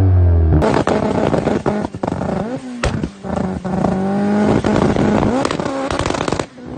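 Tuned car engines revving hard with exhaust backfires: an engine note drops in pitch, then about half a second in another engine takes over, revving up and down and holding near the limiter, with many sharp pops and bangs from the exhaust.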